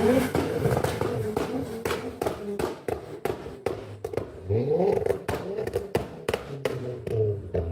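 A car's engine and exhaust at a meet: a rapid, irregular run of sharp pops and cracks, with a rising rev about four and a half seconds in.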